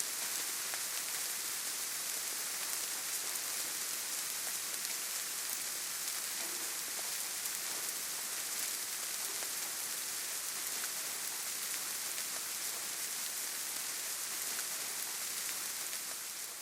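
Steady rain falling on forest leaves and ground: an even hiss with scattered ticks of single drops, starting to fade out at the very end.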